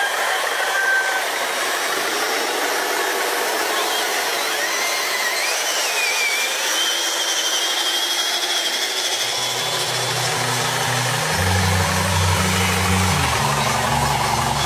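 Radio-controlled truck running, with a steady whirring hiss and a faint whine that rises and falls in pitch. About ten seconds in, a low hum comes in and steps between pitches.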